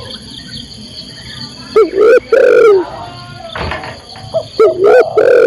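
Female spotted dove cooing: two loud coo phrases, one about two seconds in and one near the end, each a couple of short notes followed by a longer falling note.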